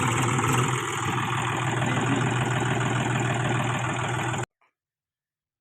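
Tractor engine running steadily at idle, cutting off suddenly about four and a half seconds in.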